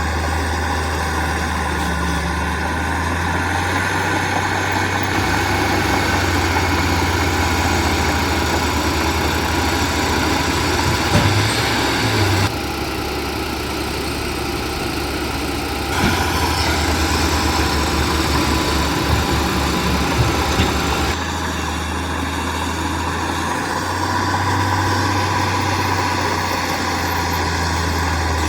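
Heavy diesel engines of earthmoving machinery running steadily. The engine note changes abruptly a few times, and there are a few brief knocks.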